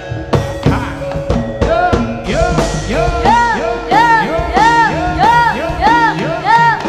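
Live jaranan accompaniment music: drum strokes at first, then a quick repeating melody of short notes that bend up and down in pitch, about three a second.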